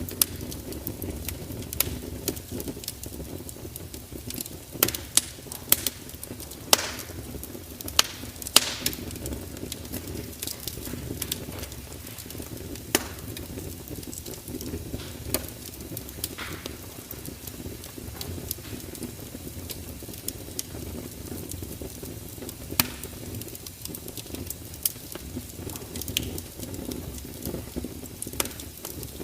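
Wood fire burning with a steady low rumble and irregular sharp crackles and pops, a cluster of louder pops about five to nine seconds in.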